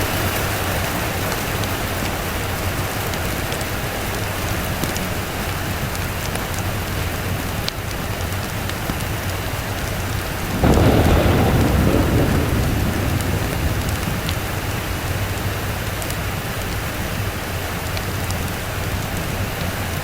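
Steady rain falling. About halfway through, a roll of thunder comes in suddenly, deep and loud at first, then dies away over a few seconds.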